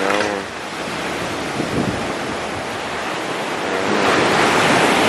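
Surf from a rough sea breaking on a beach: a steady rush of waves that swells louder near the end.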